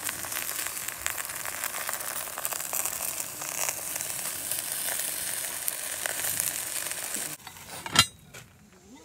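Chicken and vegetables sizzling in a hot pot hung over a charcoal fire: a steady crackling hiss that drops away suddenly about seven seconds in. About a second later comes a single sharp clank, the loudest sound.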